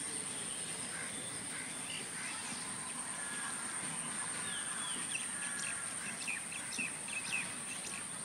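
Birds chirping, a cluster of short calls in the second half, over a steady high-pitched whine and a low, even background of outdoor noise.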